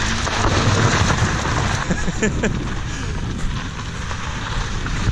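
Holden car doing a short burnout: a loud, steady rush of wheelspin and tyre noise, with the engine revving up and down about two seconds in.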